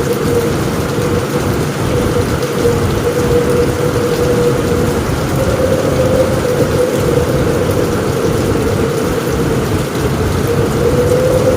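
Steady heavy rain on a roof with a low rumble of thunder underneath and a steady tone running through it.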